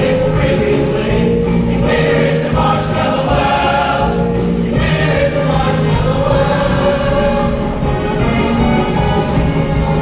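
Choir singing sustained chords with instrumental accompaniment.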